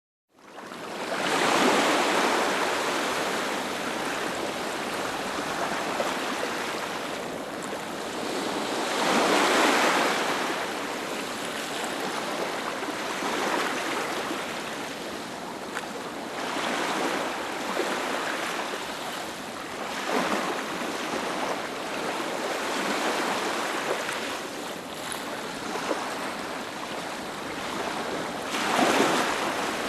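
Ocean waves breaking on a beach: surf washes in and swells in surges every few seconds, loudest about two seconds in and again around ten seconds. It fades in from silence at the very start.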